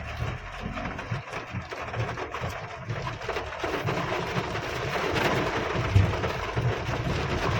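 Heavy rain pelting the car's roof and windscreen as a dense patter, over the low rumble of the car driving, heard from inside the closed cabin.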